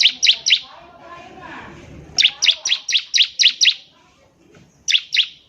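Bar-winged prinia (ciblek) singing in rapid runs of sharp, downward-sliding notes, about four a second. The notes come in three bursts, a short one at the start, a longer run in the middle and two notes near the end, with softer twittering underneath.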